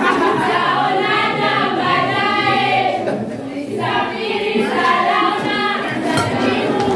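A choir singing, several voices together in a sustained, wavering melody, dipping briefly a little past the middle.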